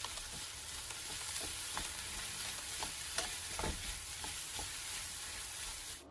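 Oyster mushrooms and sliced peppers sizzling in a frying pan while a wooden spatula stirs them: a steady frying hiss with occasional short scrapes and knocks of the spatula against the pan.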